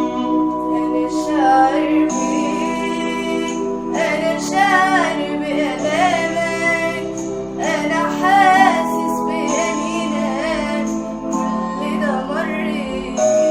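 A woman singing an Arabic Christian hymn in phrases, her voice wavering on held notes, over sustained instrumental accompaniment.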